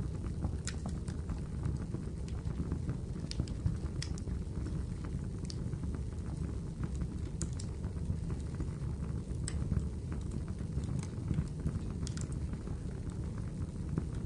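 Wood fire burning in a fireplace: a steady low rumble of flames with irregular sharp crackles and pops, roughly one every second or so.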